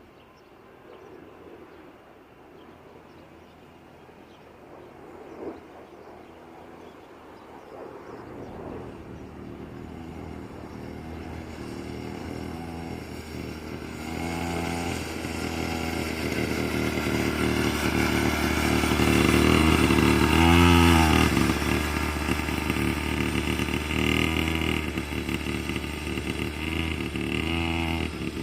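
Small 49cc two-stroke quad bike engine, brand new and being run in gently, faint at first and then growing louder as it comes closer, loudest about 20 seconds in. Short blips of throttle make the pitch rise and fall a few times.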